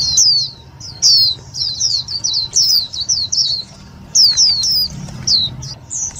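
A caged lure white-eye (vành khuyên) calling: rapid clusters of short, high chirps, each falling in pitch, with brief pauses between clusters. This is a decoy bird's call, used to draw in and excite wild white-eyes for trapping.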